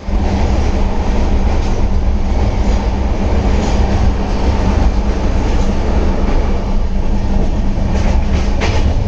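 Passenger train running at speed, heard from inside a closed air-conditioned coach: a steady low rumble of wheels on rails, with a few sharp clicks about eight seconds in.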